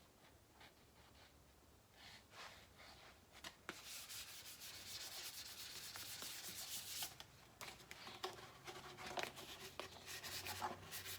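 Fine sandpaper rubbed by hand over the clear coat of a painted motorcycle panel, flatting out orange peel. After a few faint ticks, a steady rubbing hiss starts about three seconds in, and from about halfway it turns into quick, even back-and-forth strokes.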